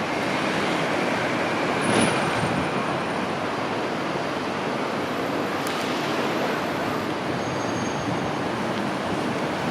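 Steady traffic noise of a busy city intersection at rush hour, with buses and streetcars passing. About two seconds in there is a brief louder swell carrying a short high squeal.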